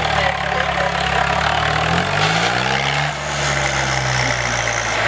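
Tractor diesel engine running steadily, then rising in pitch about two seconds in as it is revved, and holding at the higher speed.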